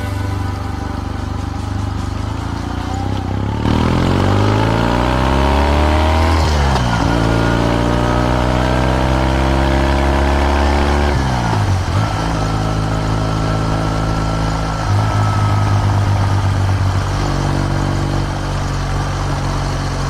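Kawasaki W650 parallel-twin engine through R's Gear Wyvern Classic aftermarket mufflers. It runs steadily at first, then accelerates from about four seconds in, its pitch rising. The pitch drops sharply twice, at gear changes, and it then runs at a steady cruise.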